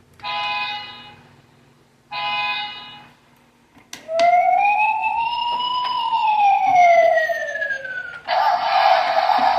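Electronic sound effects from a 1/24-scale toy excavator truck: two short horn honks, then a siren wail that rises and falls once, then a steady harsh noise starting near the end.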